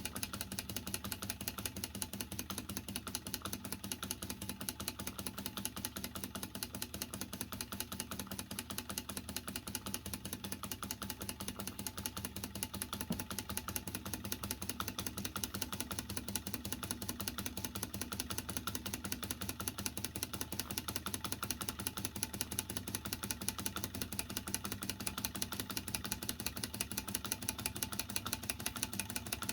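Small Bing Werke live steam toy traction engine running steadily under steam, its little cylinder ticking over at a rapid, even beat.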